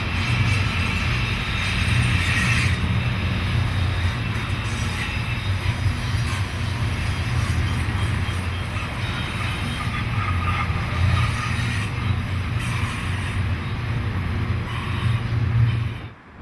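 Freight train running on Cajon Pass: a steady low drone of diesel locomotives with wheel and rail noise, cutting off abruptly near the end.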